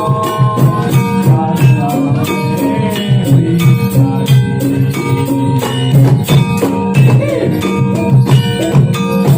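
Music accompanying a Jathilan horse dance: a fast, steady beat of drums and jingling percussion under held melodic notes from pitched instruments.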